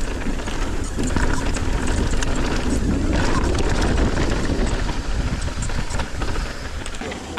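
Mountain bike riding fast down a dirt trail: continuous wind and tyre rumble on the ride camera's microphone, with many quick clicks and rattles over rough ground.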